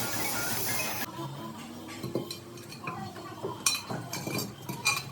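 A dense, steady hiss that cuts off suddenly about a second in, followed by scattered light metallic clinks and taps of metal parts or tools being handled.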